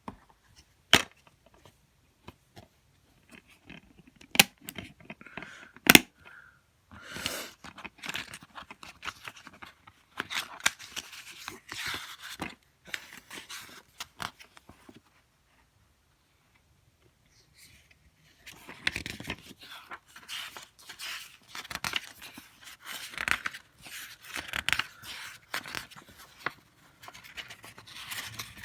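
Plastic DVD cases being handled: a few sharp clicks in the first six seconds, then long stretches of rustling and scraping with a short quiet gap midway.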